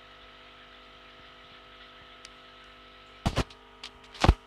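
Steady electrical hum from fish-room equipment, with a few sharp knocks: two close together about three seconds in, a lighter one after them, and a louder one just before the end.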